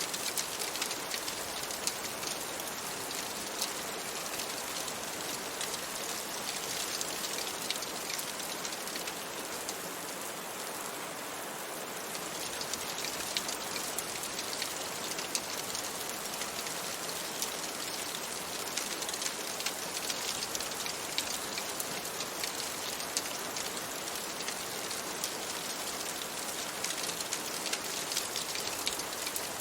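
Steady rain falling, an even hiss with a dense patter of small sharp drop ticks.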